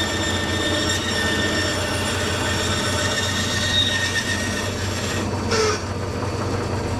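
A woodworking power tool running steadily with a high whine, cutting away waste wood from a solid guitar body.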